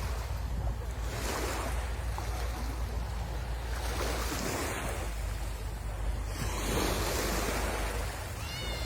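Sea waves breaking and washing up the shore, the surf swelling and falling back in several surges, over a steady low rumble.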